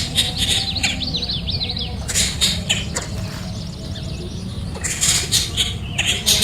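Nestling birds begging: a quick run of short, high, falling chirps in the first second and a half, followed by scattered bursts of rustling and flapping.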